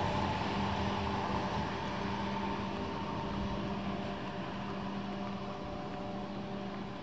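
ICE-T electric tilting train moving away, its running noise and a steady electric hum with a few fixed tones fading slowly.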